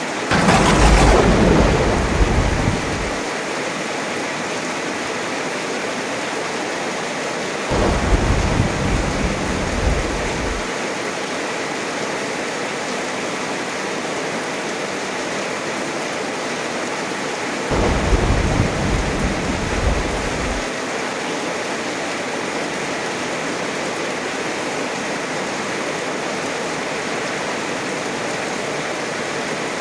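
Steady heavy rain with three rolls of thunder: one just after the start, opening with a sharp crack and the loudest, then deeper rumbles about 8 seconds and about 18 seconds in, each lasting around three seconds.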